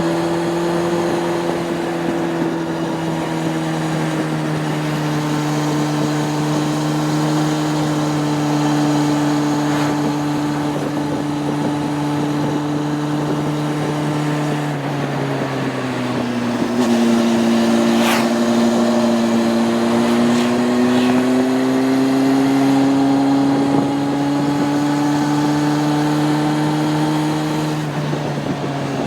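Honda CB600F Hornet's inline-four engine running under way at steady revs. Its pitch drops about halfway, climbs slowly as the bike picks up speed, then drops again near the end, like the rider shifting or rolling off the throttle. A brief click comes about two-thirds of the way through.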